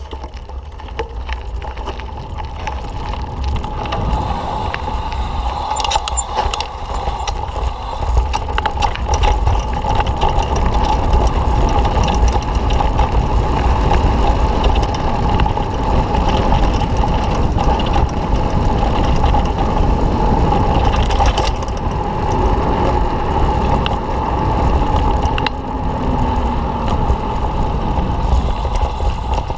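Mountain bike being ridden: continuous tyre-on-trail and drivetrain noise with scattered clicks and rattles, and a low rumble of wind on the microphone, getting louder over the first few seconds.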